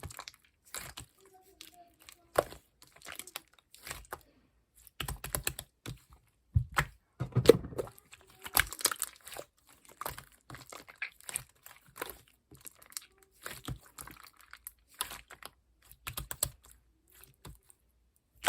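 Clear slime being played with by hand, giving irregular, fast clicking and crackling, with a denser cluster of clicks and a few low squelches in the middle.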